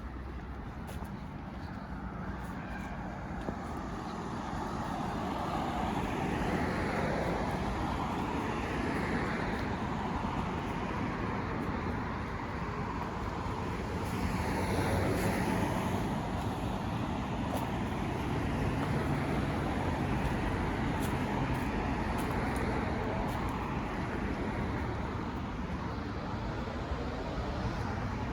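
Road traffic noise: a steady wash of cars passing on a nearby street, swelling and easing over several seconds as vehicles go by.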